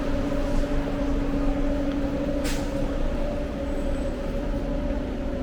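A passenger vehicle running with a steady hum and low rumble, with a short hiss of air about two and a half seconds in.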